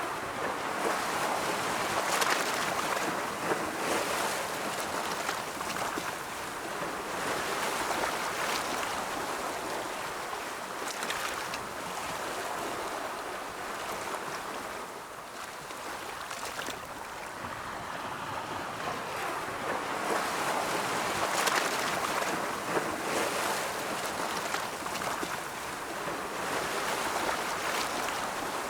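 Ocean waves rolling in and washing on the shore: a continuous rush of surf that swells and eases every few seconds, with breaking surges now and then.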